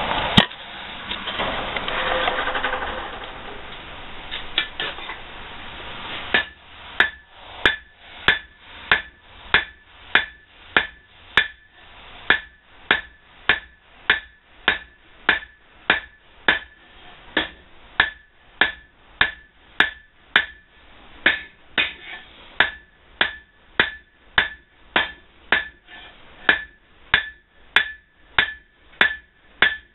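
Blacksmith's hand hammer striking hot steel on an anvil, forging the handle end of a fireplace poker: a steady rhythm of blows, about one and a half a second, each with a short metallic ring. A steady rushing noise comes first and gives way to the hammering about six seconds in.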